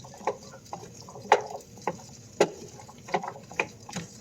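Diced squash and onion frying in hot olive oil in a pan, spitting and popping irregularly, with about ten sharp pops over a faint sizzle.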